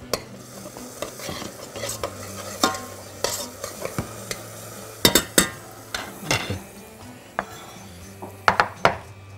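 Chopped onion and garlic sizzling in olive oil in a stainless steel pot, stirred with a metal spoon that scrapes and clicks against the pot. Sharp clinks come about five seconds in and again near the end.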